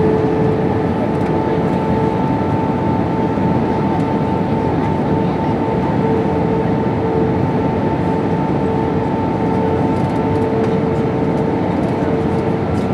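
Steady cabin noise of an Airbus A320-232 in flight: a rushing sound of airflow with the drone and steady whine of its IAE V2500 engines.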